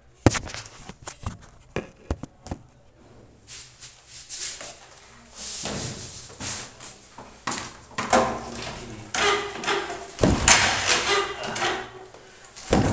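Clunks and knocks from a motorcycle that will not start while someone tries to start it. There is a run of sharp knocks in the first few seconds, then longer scraping and clattering noise that grows louder near the end. No engine is heard catching.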